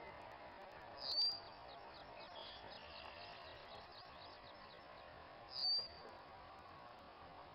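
Birds calling in a marsh: two sharp, high calls about four and a half seconds apart, with a quick run of faint repeated chirps between them.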